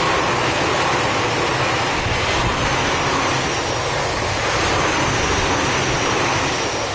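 Tobu 50050 series electric train passing close by: steady noise of its wheels and running gear on the rails, dropping off near the end as the last car goes by.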